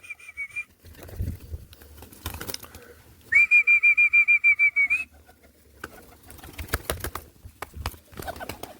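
A whistle blown in a trill, twice: briefly at the start, then for about two seconds in the middle, used to call young roller pigeons. Faint knocks and rustling of the pigeons moving about sound between the whistles.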